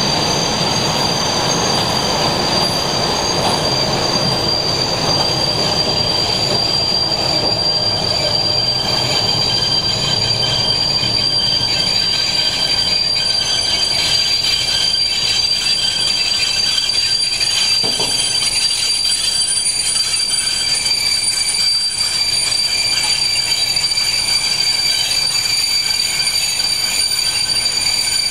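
Wagons of a track-renewal works train rolling slowly past, their running gear giving a steady, high-pitched metallic squeal over the rumble of the wheels. The rumble eases in the second half, and one sharp knock sounds about eighteen seconds in.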